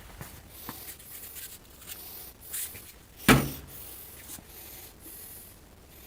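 Handling noises: light rubbing and scraping with a few faint clicks, and one sharp knock a little over three seconds in, the loudest sound.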